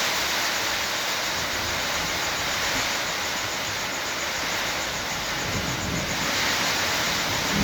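Steady heavy rain falling, with a brief low rumble about five and a half seconds in.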